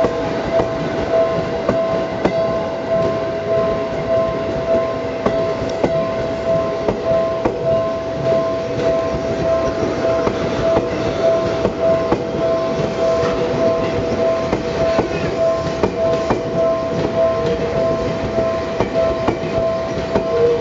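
Seibu Railway 101-series and 2000-series electric cars rolling slowly, wheels clicking over rail joints and points. Over it, an electronic warning bell rings with a steady pulsing tone, typical of a Japanese level-crossing alarm.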